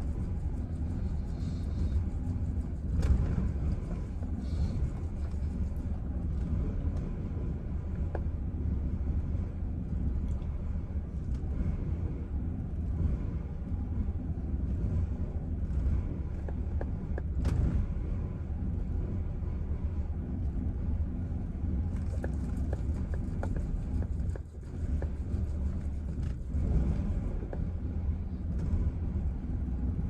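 Chevrolet Silverado engine idling roughly: a low, uneven rumble that wavers in loudness and drops briefly about 24 seconds in.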